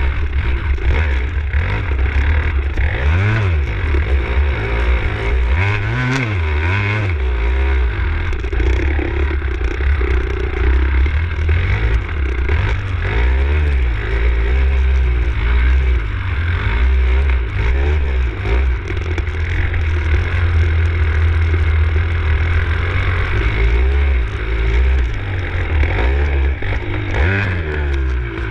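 Enduro dirt bike engine revving up and down over and over, the pitch rising and falling every second or two as the rider works the throttle through a muddy trail.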